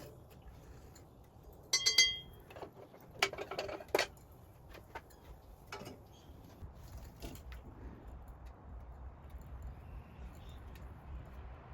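Metal scrap parts being handled: a sharp clink that rings briefly about two seconds in, a rattle of knocks just after, then a few light ticks.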